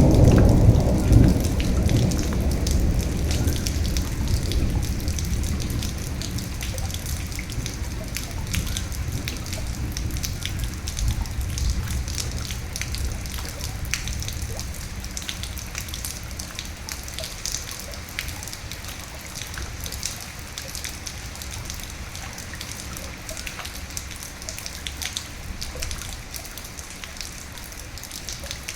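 Steady rain with individual drops ticking close by, and a low rumble of thunder at the start that dies away over the first several seconds.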